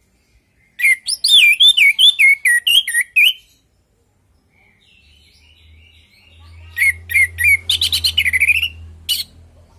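Orange-headed thrush singing: a phrase of rapid, varied whistled notes about a second in, softer notes after it, then a second run of quick notes ending in a downslurred whistle near the end. A faint low hum runs underneath in the second half.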